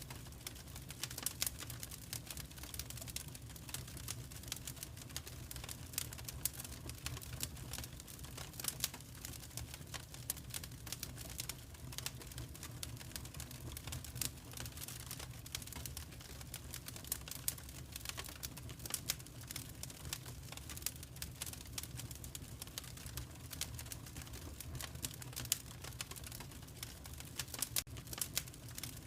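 Wood fire crackling in a fireplace: many small irregular pops and snaps over a low, steady rumble.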